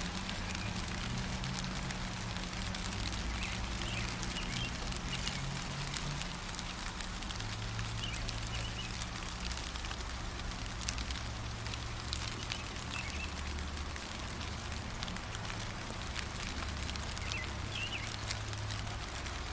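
Steady gentle rain pattering, with a few short bird chirps now and then and a low rumble underneath.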